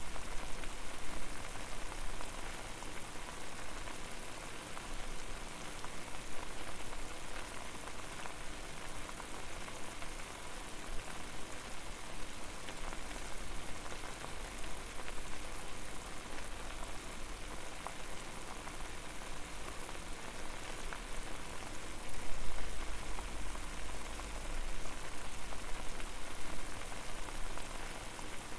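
Water boiling in a pot over a fire: a dense, steady patter of bubbling and popping, with a low rumble that swells briefly about three quarters of the way through.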